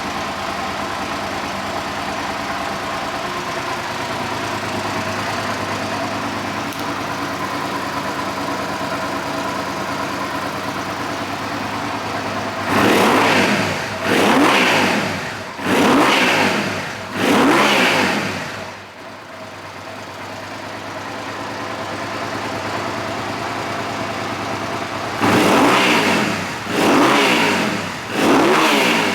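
2005 Suzuki SV650's 645 cc V-twin engine idling steadily, then blipped four times in quick succession, each rev rising and falling back. After a brief dip it settles back to idle and is blipped three more times near the end.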